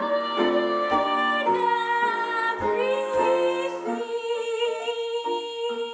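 Instrumental stage music with a woman singing a wordless melody over it. About two-thirds of the way in she holds one long note over short repeated lower notes.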